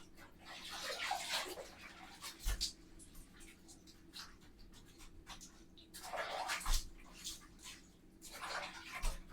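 Bathroom surfaces being scrubbed by hand during cleaning: irregular spells of rough rubbing, with a few dull knocks about two and a half seconds in, near the middle and near the end.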